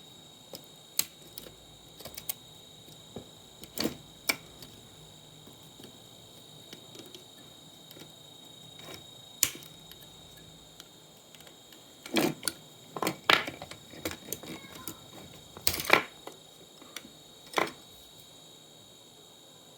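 Irregular sharp clicks and knocks of hard small parts and hand tools being handled while a monitor is taken apart, busiest about three-quarters of the way through, over a faint steady high-pitched whine.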